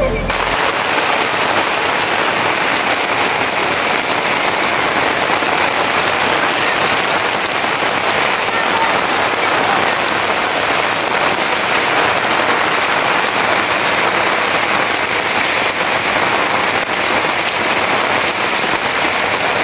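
Steady rain falling, an even patter with no break.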